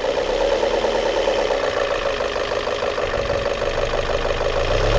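Volvo S40 engine idling smoothly and steadily. A slight tapping is present that the mechanic thinks could be a valve or something else.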